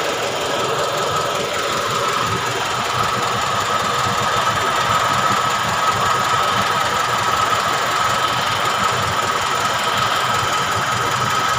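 Toyota Kijang Kotak engine running steadily at idle, with no revving.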